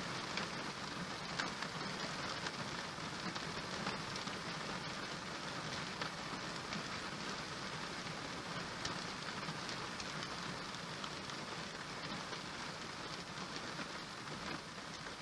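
Steady rain falling on a surface, with scattered sharper drop ticks.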